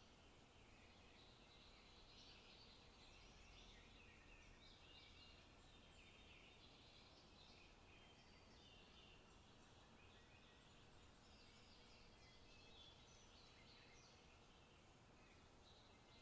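Faint forest ambience: small songbirds chirping and singing on and off throughout, over a low steady background hiss.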